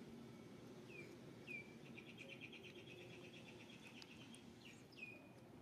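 Faint bird calls: a couple of short falling chirps, a rapid trill lasting about two seconds, then more chirps near the end.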